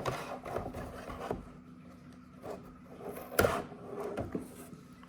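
Toy packaging being handled and pulled open: irregular rubbing, scraping and clicking, with one sharp snap about three and a half seconds in.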